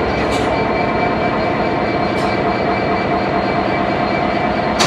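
Freightliner Class 66 diesel locomotive's two-stroke V12 engine idling at a stand, a steady throbbing run. A few short hisses break over it, the sharpest near the end.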